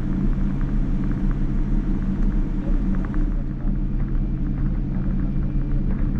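Steady cabin rumble and engine hum of a Boeing 787-9 on the ground before takeoff, with scattered light rattles and ticks from the cabin.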